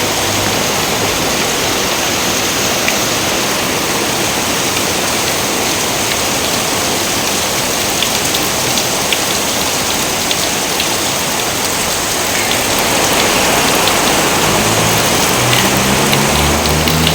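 Steady rain, with a few separate drops ticking now and then. A low rumble comes in over the last few seconds.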